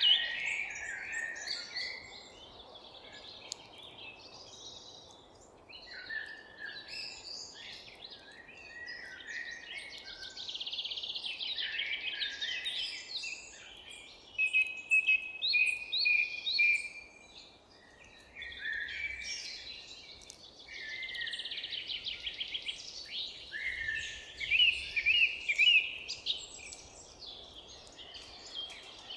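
Several songbirds singing and calling in overlapping phrases of chirps and fast trills, with quieter gaps between bursts, over a faint steady low background hiss.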